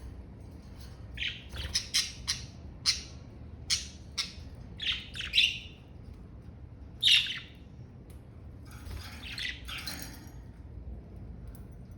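Budgerigars chirping and squawking in short, sharp, high calls: a quick run of them from about a second in, one loud call a little past the middle, then softer chatter near the end.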